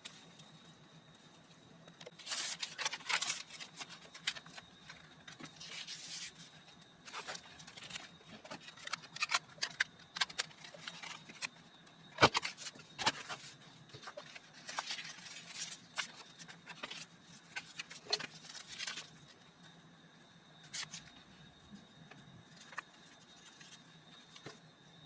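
Hands working with paper and craft materials: irregular scraping and rustling with sharp taps, the loudest tap about halfway through, over a faint steady high-pitched tone.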